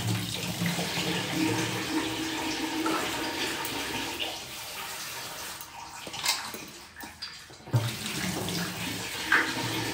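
Water running from a kitchen tap and splashing into a sink, dropping off briefly twice past the middle.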